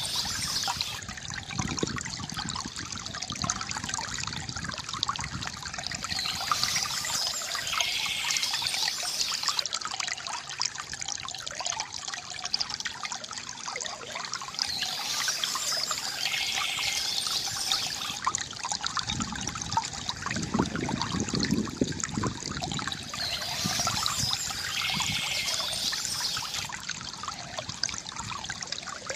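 A shallow stream trickling and burbling steadily over rocks. A brighter, high-pitched sound, which the title has as birds singing, comes back about every nine seconds.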